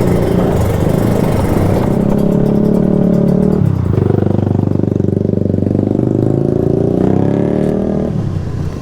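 Kawasaki Ninja 150 RR two-stroke single-cylinder engine running under way. The revs drop sharply a little under four seconds in, then climb steadily before falling away about eight seconds in as the throttle closes.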